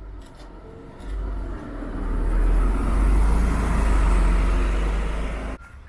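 Road vehicle rumbling close by: a low rumble that swells about a second in, holds loud, and cuts off abruptly near the end.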